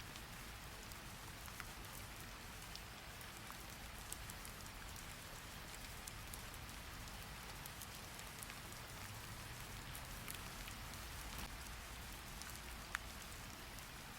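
Steady rain, an even hiss with scattered sharp drop ticks at irregular intervals; one louder tick comes near the end.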